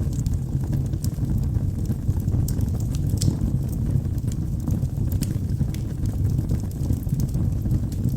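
Wood logs burning in a fireplace: a steady low rumble of the flames with scattered sharp crackles and pops, the loudest about three seconds in.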